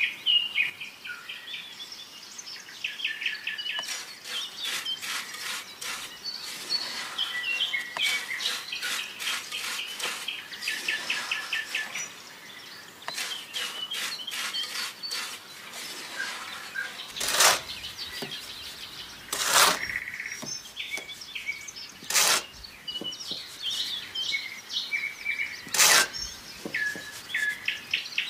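Small birds chirping continuously in quick repeated notes, with four sharp clicks or knocks in the second half.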